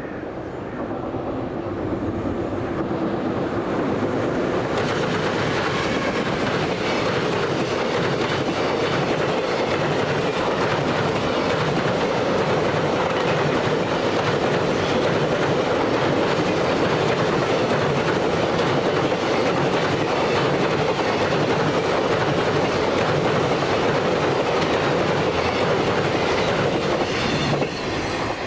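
Long freight train hauled by an EF210 electric locomotive passing at high speed: a loud, steady roar of wheels with rail-joint clickety-clack. The noise builds over the first few seconds and cuts off sharply near the end, as the tail of the train goes by.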